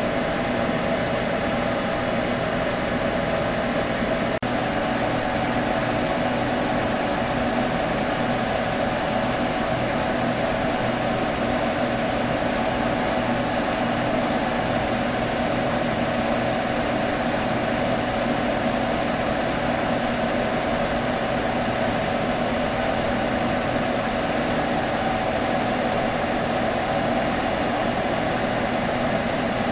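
Computer humming steadily: a fan whirring with a low electrical hum and a couple of steady tones underneath. There is a brief click-like dropout about four seconds in.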